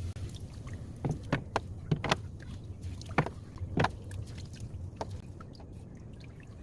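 Water sloshing in a top-loading washing machine tub during cleaning, with about eight irregular knocks against the tub.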